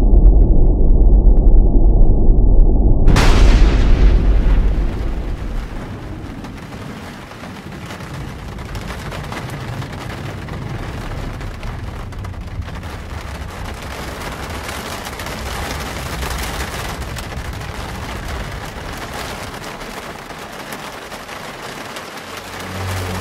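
A loud rumble, then a sudden thunderclap about three seconds in that fades over a couple of seconds, followed by the steady hiss of falling rain.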